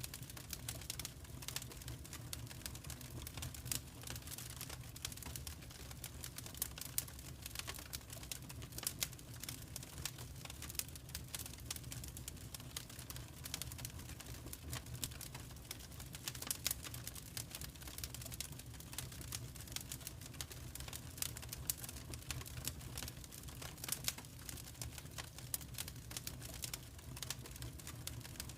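Wood fire in a fireplace crackling: a steady stream of irregular small pops and snaps, a few louder than the rest, over a low steady rumble.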